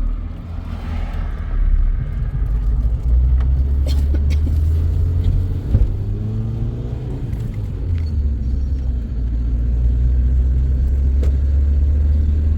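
Motor vehicle driving: a steady, loud low rumble of engine and road, with a few sharp knocks and a brief change in engine pitch about halfway through.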